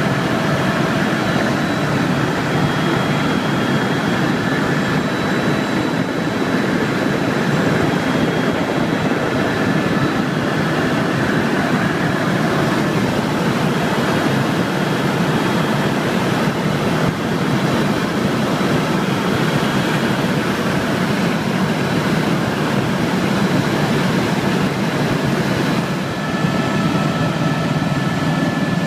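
Helicopter running steadily: a constant engine whine with a few high steady tones over a dense rumble of rotor and engine noise.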